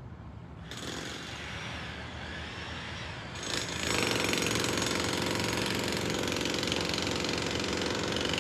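Jackhammer breaking up the ground over a water line, hammering steadily; it starts about a second in and gets much louder about three and a half seconds in.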